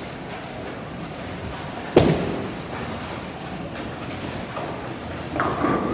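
Bowling alley noise: a steady rolling rumble with a single heavy thump about two seconds in that rings on for about a second, and a steady high whine starting near the end.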